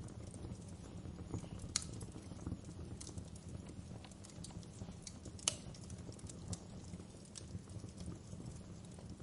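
Fire burning in a fireplace, crackling: a steady low rumble with scattered sharp pops, two louder ones about two seconds and five and a half seconds in.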